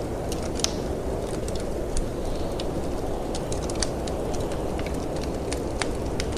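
Wood fire crackling in a fireplace, with many irregular sharp pops and snaps, over a steady low rush of storm wind.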